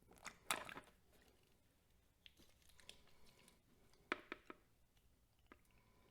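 Faint handling noises: a brief rustling scrape about half a second in, then a few sharp little clicks around four seconds in, over near silence.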